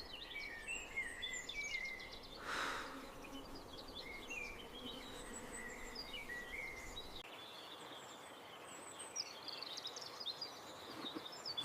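Small birds chirping, with one brief breathy rush of noise about two and a half seconds in.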